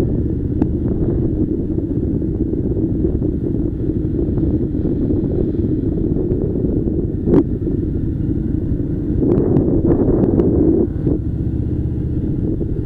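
Harley-Davidson Softail Slim V-twin engine running steadily under way, with wind noise on the microphone; it swells a little around ten seconds in, and there is a sharp click about halfway through.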